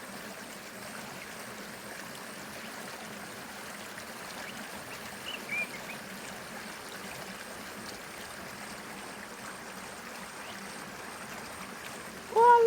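River water flowing steadily, an even rushing hiss. A brief faint chirp sounds about five seconds in, and near the end a loud wavering, pitched cry begins.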